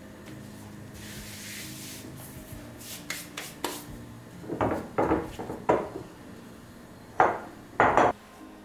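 Kitchen handling sounds: a soft hiss, then a few sharp knocks and a run of short scrapes, the loudest two near the end.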